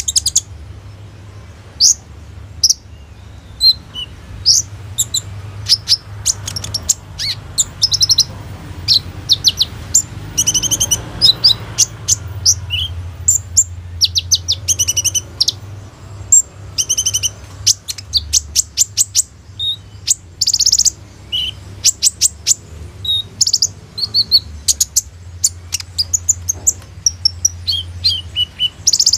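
Kolibri ninja sunbird singing vigorously: a continuous stream of sharp, high-pitched chirps, quick note series and fast rattling trills, with a steady faint low hum beneath.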